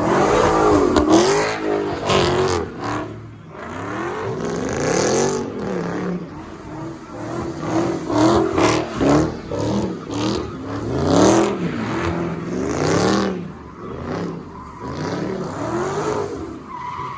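Car engine revved again and again, its pitch climbing and falling in a string of quick revs, with a few sharp cracks among them.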